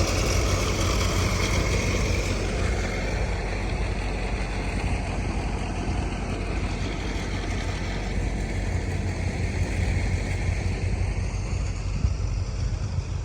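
An engine running steadily, a low rumble with hiss, cutting off suddenly at the very end.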